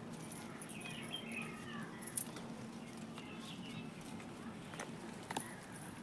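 Birds giving short chirps, with a few sharp clicks in between over a steady low hum.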